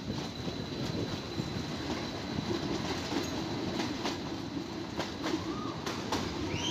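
Nilgiri Mountain Railway passenger train running along the track, a steady rumble with scattered clicks of the wheels over the rails. Short high wheel squeals come in near the end.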